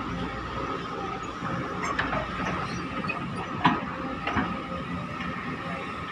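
Excavator engine running steadily with a constant high whine, with a few sharp knocks, the loudest about three and a half seconds in.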